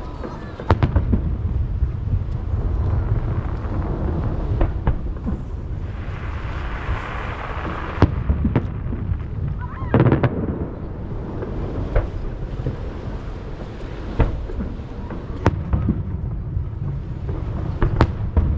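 Aerial fireworks shells bursting over the sea, a sharp bang every second or few, over a continuous low rumble of booms echoing off the surrounding hills. A brief crackling hiss comes in the middle.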